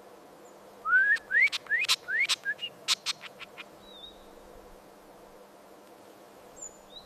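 A songbird singing a rapid phrase of about five short rising whistles mixed with sharp, clicking chip notes, lasting about three seconds, followed by a couple of faint high notes.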